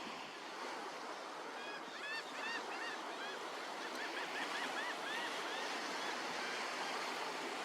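Surf washing steadily on the beach, with a quick run of short gull calls, each rising and falling in pitch, from about two to five and a half seconds in.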